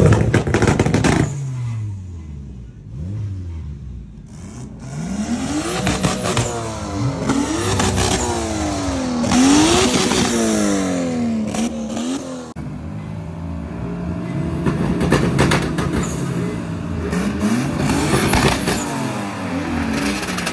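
A car engine revving hard, its pitch sweeping up and down again and again about once a second. The sound breaks off abruptly about twelve seconds in, and the revving picks up again.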